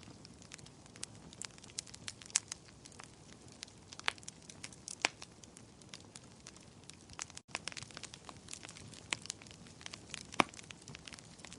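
Wood fire crackling in a fireplace: irregular sharp pops and snaps over a faint hiss, with a few louder pops scattered through.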